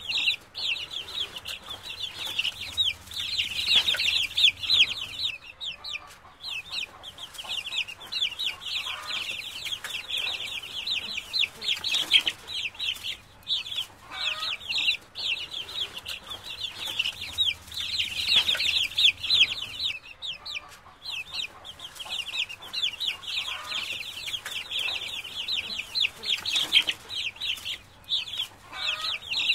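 A brood of ducklings peeping continuously, many high, quick chirps overlapping.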